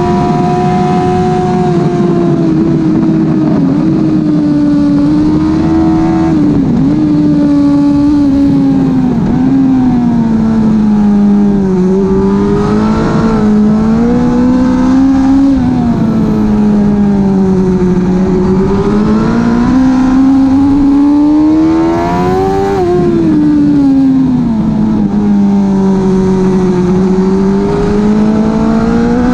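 2005 Suzuki GSX-R 1000 K5's inline-four engine through a Bodis slip-on exhaust, running hard at high revs. For the first ten seconds the pitch holds high with several brief dips as it is quickshifted up through the gears. After that the revs fall and climb again in long swells as the bike brakes and accelerates through corners.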